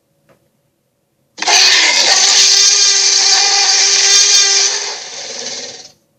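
A giant sea creature's roar sound effect: a harsh, raspy cry with a strong pitched core that starts abruptly, holds for about three seconds, then drops lower and quieter before cutting off.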